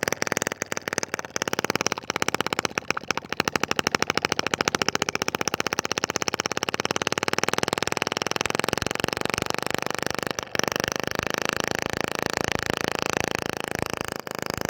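Small homemade gasoline engine converted from an old refrigerator compressor, running with a rapid, even firing beat.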